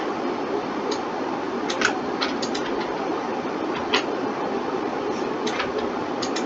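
Scattered computer mouse clicks and key taps, irregular and a few seconds apart, over a steady background hiss.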